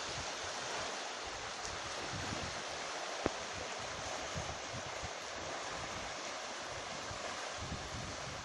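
Steady rush of sea surf, with low gusts of wind buffeting the microphone; a single sharp click a little over three seconds in.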